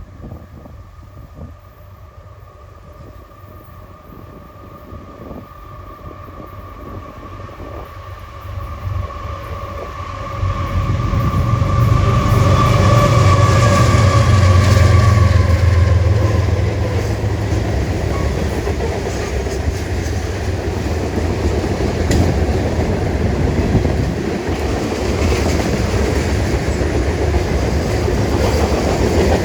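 A diesel-hauled freight train approaching and passing. The locomotives' rumble builds and arrives loud about ten seconds in, and a steady whine drops in pitch as they go by. The freight cars then roll past with steady wheel clatter on the rails.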